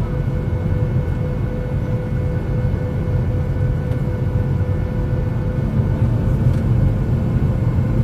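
Inside an airliner's cabin: a steady low rumble of engines and airflow with a few faint steady tones above it.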